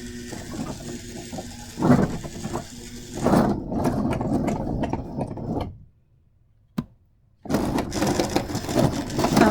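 Toy train running on its track: a small electric motor hums and the wheels clatter and click along. The sound cuts out completely for about a second and a half past the middle, then the train runs again. This fits the stalling, unreliable running that is called a meltdown.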